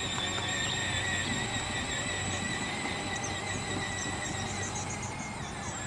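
Battery-powered ride-on toy tractor driving, its electric motor and gearbox giving a steady high whine over a low rumble, slowly fading.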